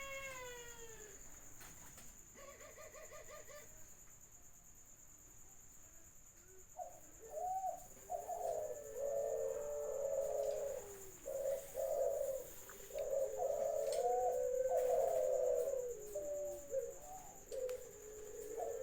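Cage doves cooing, used as a lure recording for contest doves. After a short falling call and a brief quick-pulsed call, a long stretch of overlapping, wavering coos starts about seven seconds in. A faint steady high-pitched tone runs underneath.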